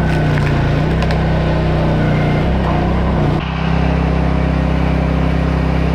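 A vehicle engine running steadily with a low, even drone. The sound changes abruptly about three and a half seconds in.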